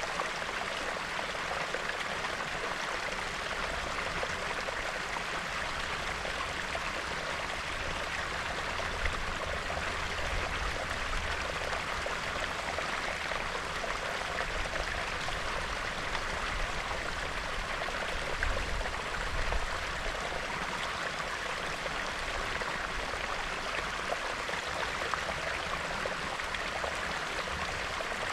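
Small, shallow stream bubbling and trickling steadily over stones, swollen with snow melt.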